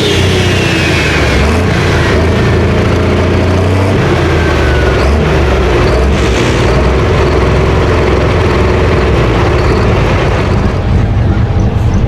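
Heavy pulling engine running loud, with a high whine that falls in pitch over the first couple of seconds, then a steady low rumble.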